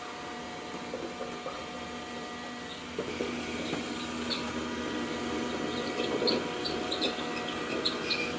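Dreame D10 robot vacuum running with a steady hum that gets louder about three seconds in, then scattered small clicks.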